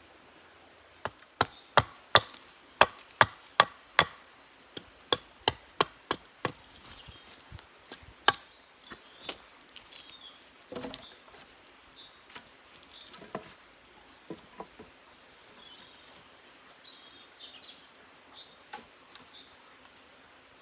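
Wood being chopped: a quick run of sharp strikes, about three a second, then further runs that grow sparser and weaker. Birds chirp faintly in the background.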